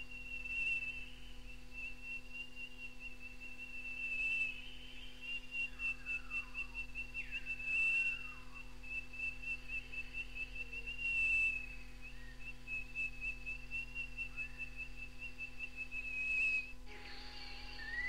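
Australian fernwren's whistled song: a high, rapid pulsing trill at near-constant pitch, with louder whistled phrases about every three and a half seconds. Near the end the recording cuts to another take with a rising whistle. A steady tape hum runs underneath.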